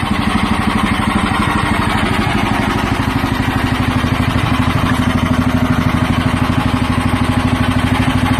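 Hudson Patriot bandsaw sawmill's gas engine running steadily with an even firing pulse.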